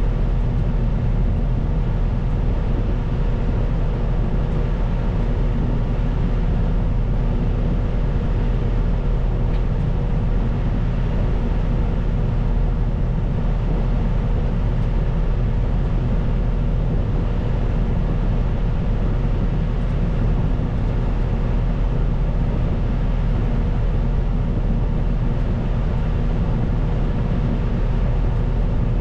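Caterpillar 926M wheel loader's diesel engine running at a steady speed, a constant hum with a fixed tone over it.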